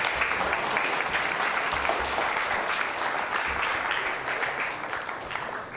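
Audience applauding steadily after a greeting, the clapping thinning out and fading near the end.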